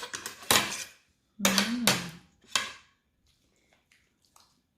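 Cutlery and tableware clattering: about five sharp clinks and knocks of spoons against bowls in the first three seconds, then a few faint ticks.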